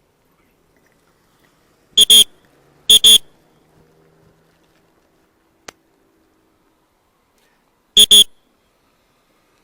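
A loud whistle blown in short double blasts, twice about two to three seconds in and once more near the end, the shrill signal used to direct traffic. A single sharp click in between.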